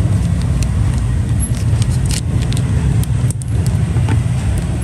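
Steady low rumble, with a few light metallic clicks from a Zippo lighter being handled, about two and three seconds in.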